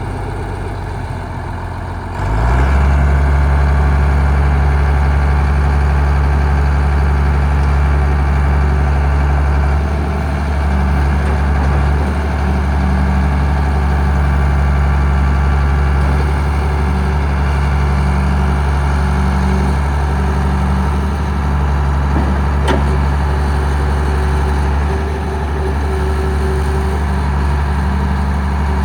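John Deere 4350 tractor's six-cylinder diesel engine running, stepping up from a lower speed to a higher, steady speed about two seconds in.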